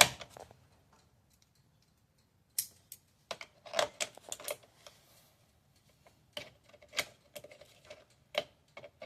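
Irregular sharp metallic clicks and taps from a door lock's hardware being fitted back onto a bus door, coming a few at a time with a quiet pause about a second in.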